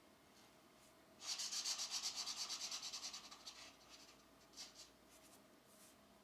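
Pencil shading on a coloring book page: a run of quick back-and-forth scratchy strokes, about nine a second for a couple of seconds, trailing off, then a couple of single strokes.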